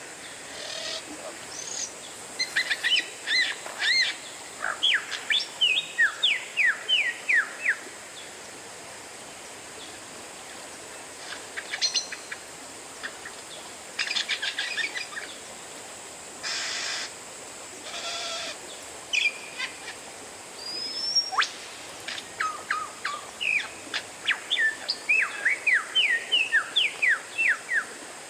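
Oriental magpie-robin (kacer) singing: a long run of quick, varied whistled and chirping notes, then short scattered phrases and a rising whistle, then another long rapid run near the end, over a faint steady hiss.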